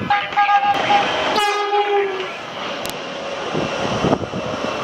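Train horn sounding over the rumble of a passing train: a higher note for about a second, then a lower note with many overtones, before the horn stops and the train noise goes on.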